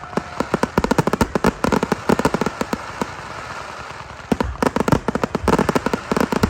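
Fireworks going off in rapid strings of sharp pops and crackles, with a brief lull a little before halfway before another dense run of pops.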